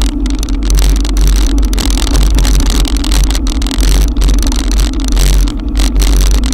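Wind buffeting an action camera's microphone as a deep rumble, with the steady hiss of a heavy downpour and wet tyres while riding an electric bike through a cloudburst.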